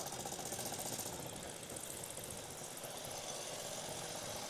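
Vintage motorcycle engine running with a steady, rapid beat, getting a little louder near the end.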